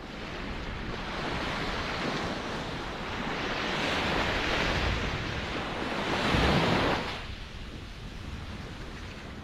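Ocean waves surging and breaking: the wash swells over several seconds to its loudest crash about six and a half seconds in, then falls away.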